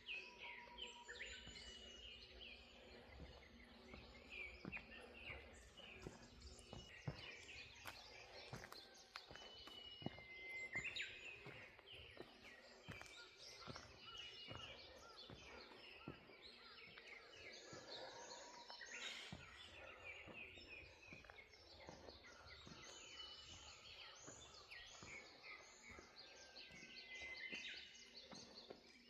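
Faint morning birdsong: several birds chirping and whistling in short, overlapping calls.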